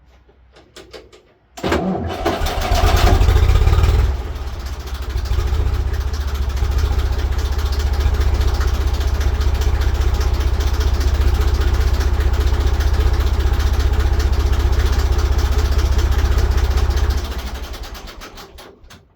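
IMT 533 tractor's diesel engine starting up: it catches abruptly and runs loudly with revs for a couple of seconds, drops back, then settles into a steady run. Near the end it dies away.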